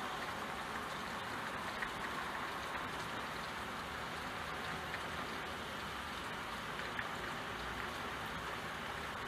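Steady rain pattering on window glass, an even hiss with a few louder single drops ticking now and then.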